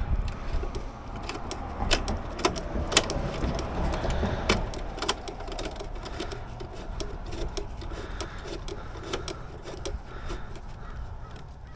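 Hand tools working a bolt: a ratchet wrench clicking in short runs, with irregular metal clinks and knocks, while a bolt is tightened.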